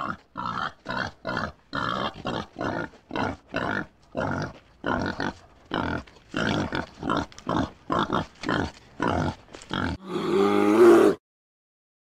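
Boar grunting in a quick run of short grunts, about two or three a second, followed about ten seconds in by one longer, wavering call.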